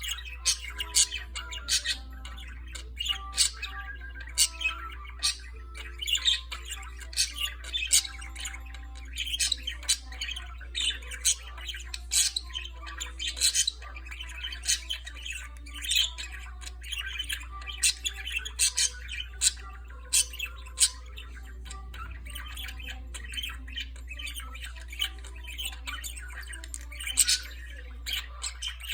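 Budgerigar warbling: a long, fast run of chatter mixed with sharp clicks, chirps and squawks. A steady low hum sits underneath.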